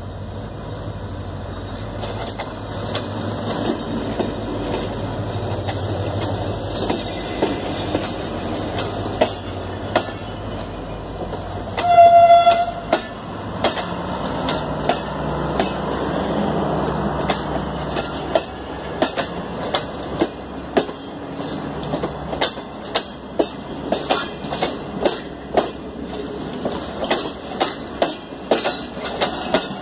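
A Pakistan Railways HGMU-30 diesel-electric locomotive hauling a passenger train past at close range: a steady diesel engine drone, then one horn blast of about a second, about twelve seconds in. After it the coaches' wheels click over the rail joints, the clicks coming faster as the train gathers speed.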